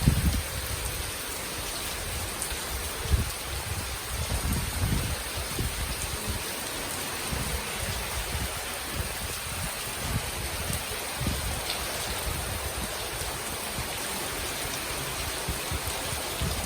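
Heavy rain falling as a steady hiss, with irregular low rumbles, strongest in the first half.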